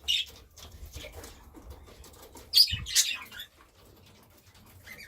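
Pet budgerigars chirping, with a loud flurry of wing flapping about two and a half seconds in.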